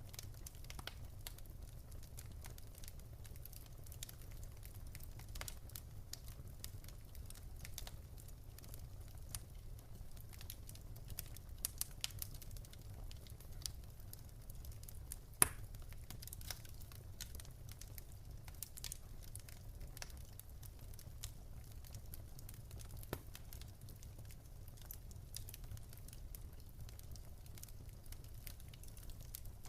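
Wood fire crackling in a fireplace: irregular small pops and snaps over a low steady rumble, with one sharper, louder pop about halfway through.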